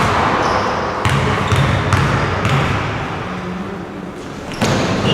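Several dull thumps in a large echoing room, roughly half a second apart early on, then a louder knock near the end.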